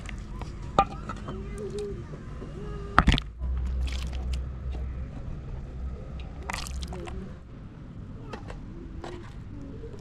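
Faint voices in the background, with a few sharp knocks, the loudest a double knock about three seconds in, over a low rumble.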